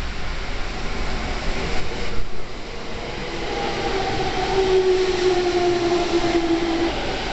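Electric commuter train at the platform, its motor whine appearing about three seconds in and falling slightly in pitch as the train slows. Underneath is a steady hiss of heavy rain and wind.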